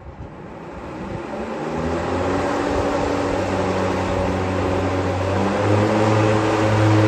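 FJD Vidar robotic lawnmower running, with its motor hum growing louder over the first few seconds. The steady low hum steps up a little in pitch and level about five and a half seconds in.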